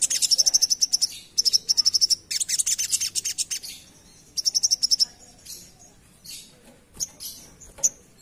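A sogok ontong sunbird singing its fast chattering 'ngerap' song: high-pitched rapid trills in four bursts of about a second each, followed by a few scattered single chips in the second half.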